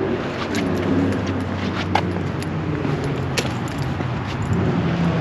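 A car engine running with a steady low hum, with a few light clicks.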